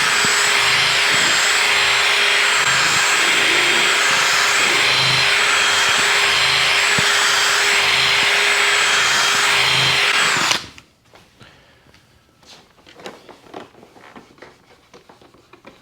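Electric drill spinning a polishing pad against a cloudy motorcycle windshield, running at a steady speed, then stopping suddenly about two-thirds of the way through. Faint clicks and handling noises follow.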